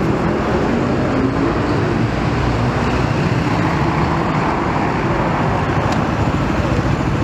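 Supermoto motorcycle engines running steadily inside a hall.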